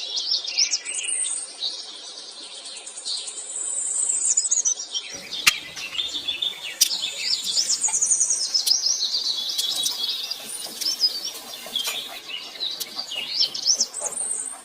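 Songbirds chirping and twittering continuously, a dense mix of quick high calls and trills, with a few faint sharp clicks in the middle.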